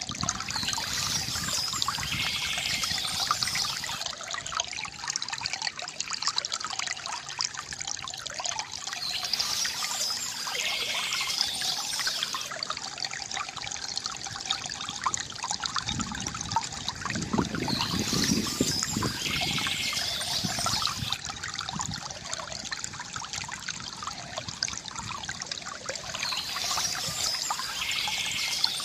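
Stream water trickling and splashing steadily. A short bird trill repeats about every eight or nine seconds, four times.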